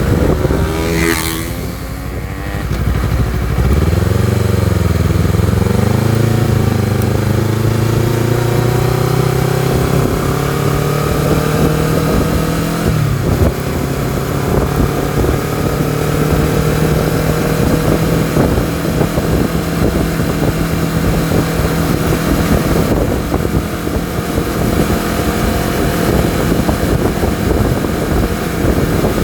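Honda CBR250RR motorcycle engine and exhaust on the move: the revs waver and climb over the first few seconds, rise steadily to a gear change about 13 seconds in, then hold nearly steady, slowly climbing.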